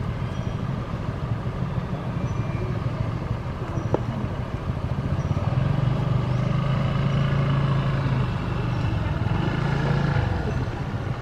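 A motor vehicle engine running with a steady low hum, getting louder about six seconds in.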